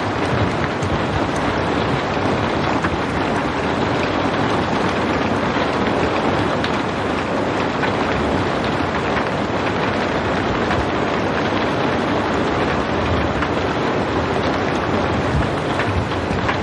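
Steady rain, a dense even hiss with scattered faint drop ticks.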